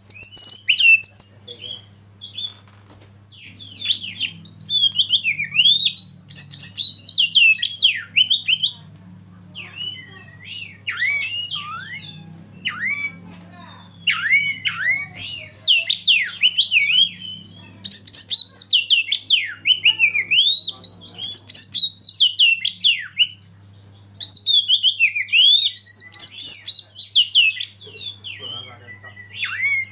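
Oriental magpie-robin singing: several-second runs of rapid, varied whistled notes, broken by short pauses, over a faint steady low hum.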